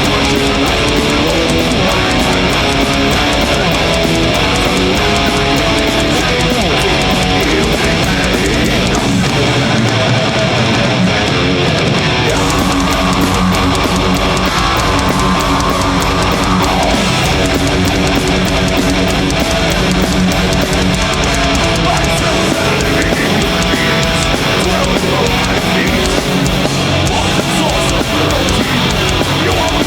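Heavy metal band playing live at full volume: distorted electric guitars, bass and drums. The bottom end thins out briefly about a third of the way in, then a long held high note slides down about halfway through.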